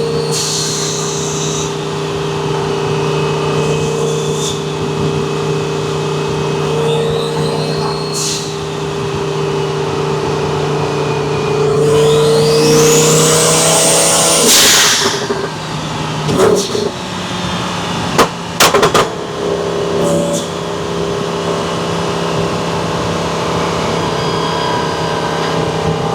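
Twin-turbo Lamborghini Huracan V10 cruising at steady revs, with a high turbo whistle swelling and fading every few seconds. About halfway it accelerates hard, the turbo whistle rising steeply, then cuts off, followed a few seconds later by a few sharp cracks before it settles back to a steady cruise.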